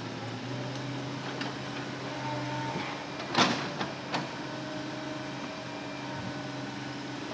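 Hitachi Zaxis excavator engine running steadily, with a loud sharp knock about three and a half seconds in and a smaller one just under a second later.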